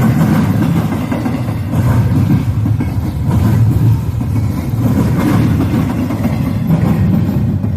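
Freight train with diesel locomotives going by: a loud, steady engine rumble that swells and eases every second or two.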